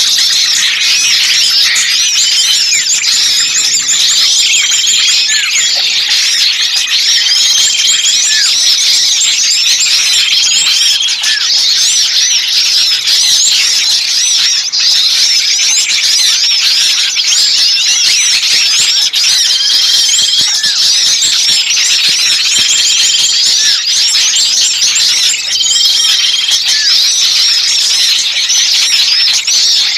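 Bird-lure recording of many small birds calling at once in a noisy, agitated chorus of rapid high-pitched chirps and trills, with a short steady whistled note repeating every few seconds. It is meant to sound like small birds in distress ('kejepit', caught), to draw other birds in.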